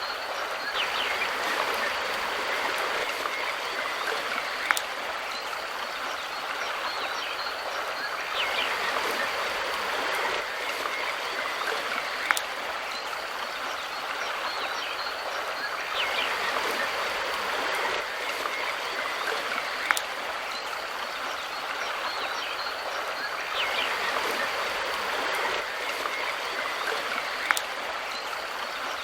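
Mountain river water rushing and splashing steadily, swelling and easing slightly in a repeating pattern. A sharp click sounds about every seven and a half seconds, four times in all.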